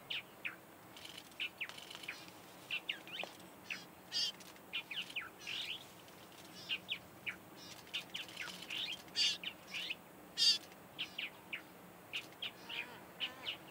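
Birds chirping: many short, high calls that sweep downward, scattered irregularly a few a second, some with a buzzy, rippling quality.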